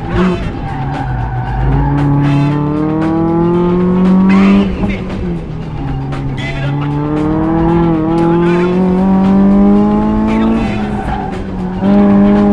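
1999 Mazda Miata's 1.8-litre four-cylinder, with aftermarket header and Borla exhaust, pulling hard under full throttle: its pitch climbs three times and falls back sharply between climbs. Music plays underneath.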